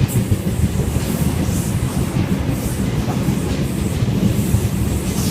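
Sydney Trains Waratah A-set electric train running through the station without stopping: a loud, steady rumble of wheels on the rails.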